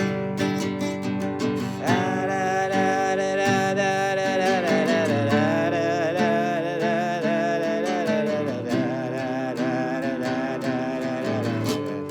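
Strummed acoustic guitar accompaniment. From about two seconds in until just before the end, a long wavering melody line is held over it.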